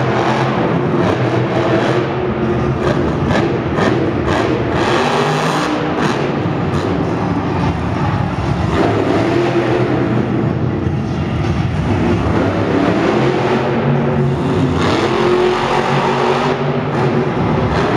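Monster truck's supercharged V8 engine running hard and revving, its pitch rising and falling repeatedly.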